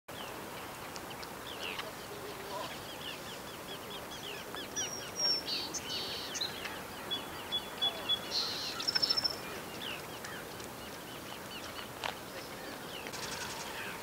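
Several wild birds calling over a steady outdoor background noise: long runs of quick short chirps, a few clear whistled notes, and a brief fast rattle a little past the middle.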